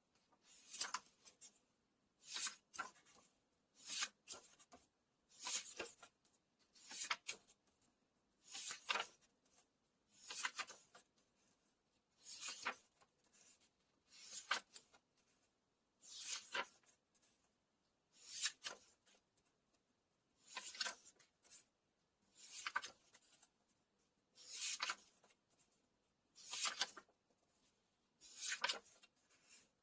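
Paper pages of a book being turned one at a time: a short, dry swish roughly every two seconds, with quiet between turns.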